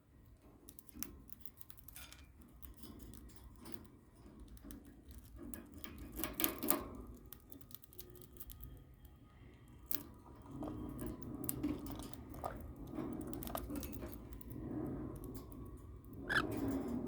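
Cockatiels pecking at and crunching cornflakes: scattered small, irregular clicks and crunches, with louder bursts about six seconds in and near the end.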